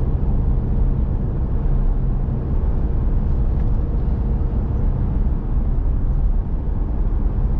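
Steady engine and tyre rumble of a car driving along a road, heard from inside the cabin: a dense, even low drone with road hiss above it. A faint steady hum rides on top and fades out about two-thirds of the way through.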